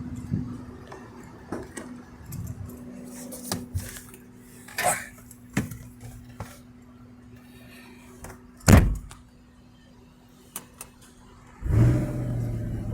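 Scattered clicks and knocks over a steady low hum, with one loud thump about nine seconds in. Steady musical notes begin near the end.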